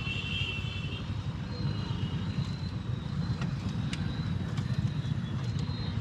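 Bajaj motorcycle engine running with a low, steady, pulsing rumble, picked up by a mic inside the rider's helmet. A few faint high tones near the start.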